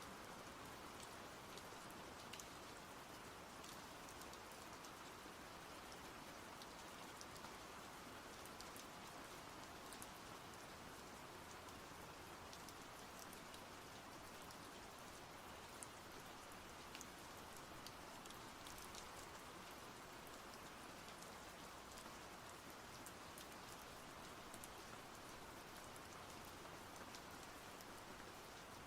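Steady, soft rain falling, an even hiss with scattered fine drop ticks.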